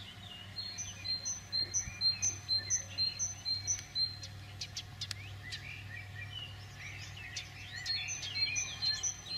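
Birds chirping: a rapid run of identical high chirps, about three a second, near the start and again near the end, with other scattered bird calls between, over a low steady hum.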